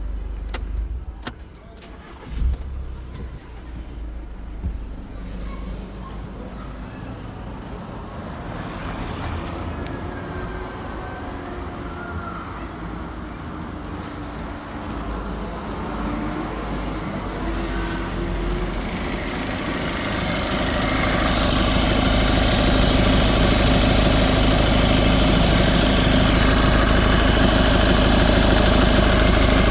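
Volkswagen Caddy's TDI diesel engine running, with a few sharp clicks and a knock in the first seconds. The sound grows louder about two-thirds of the way through and stays loud.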